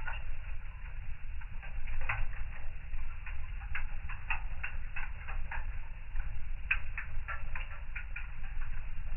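Fire in a fireplace crackling, with irregular sharp pops and snaps that come thickest around the middle, over a steady low rumble of the flames.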